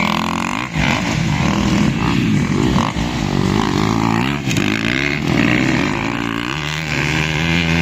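Motocross dirt bike engines revving, their pitch rising and falling over and over.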